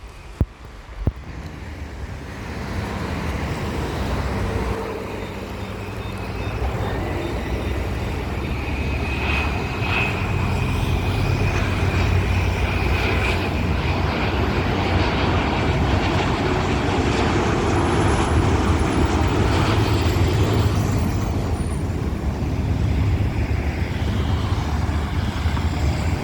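Jet engines of an Airbus A330neo, Rolls-Royce Trent 7000s, passing low on approach: a rush of jet noise that grows over the first few seconds and then holds loud, with a faint whine in the middle. Road traffic runs underneath, and two sharp clicks come right at the start.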